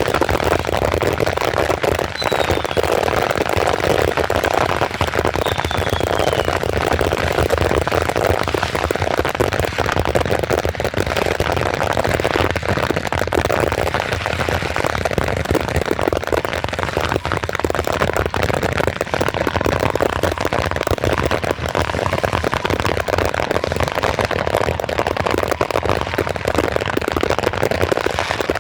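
Many fireworks and firecrackers going off at once in a dense, continuous crackle. In the first few seconds it is joined by a couple of short falling whistles.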